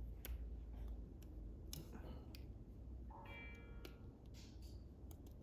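Faint scattered clicks and taps of small plastic and metal heater parts being handled while wires are worked out of a connector by pressing its tabs, with a brief squeak a little past the middle.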